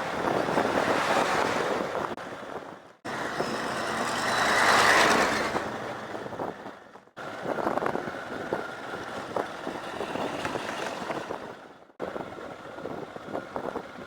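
Motorbike riding on a gravel dirt road: engine, wind and the crunch and rattle of tyres on loose stones. The sound breaks off abruptly three times as separate stretches of the ride are cut together, with a louder swell about four to five seconds in.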